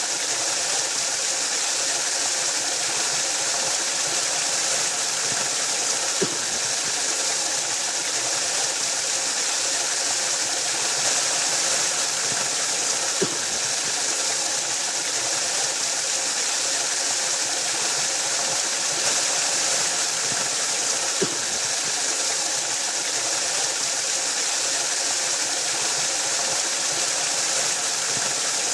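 Waterfall: water falling and rushing in a steady, unbroken roar, with a faint tick about every seven to eight seconds.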